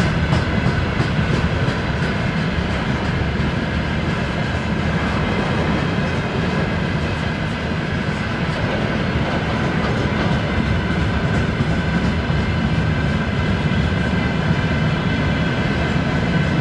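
Freight train rolling by on the rails: a steady rumble of wheels and wagons with clickety-clack over the rail joints, and a steady high whine of several tones above it.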